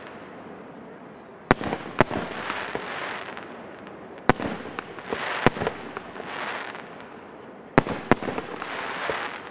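Fireworks display: aerial shells bursting with six sharp bangs, some in close pairs. Each bang is followed by about a second of noisy crackle.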